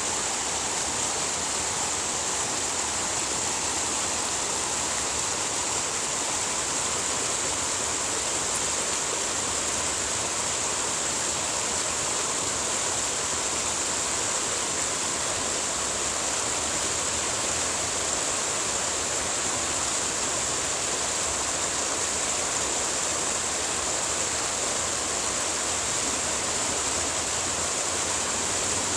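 Running water rushing steadily and evenly, with no change in level.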